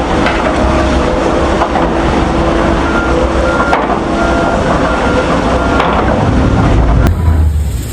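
A loud vehicle running, a dense rumbling noise with a steady tone through it, changing abruptly near the end.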